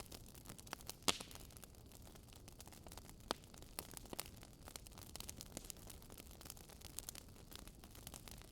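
Wood fire crackling: irregular sharp pops and snaps, the loudest about a second in, over a faint steady hiss.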